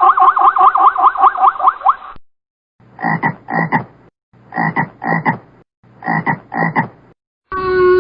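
Frog calls: a fast run of rising chirps for about two seconds, then, after a short pause, three evenly spaced double croaks. Just before the end a different, steady pitched call begins.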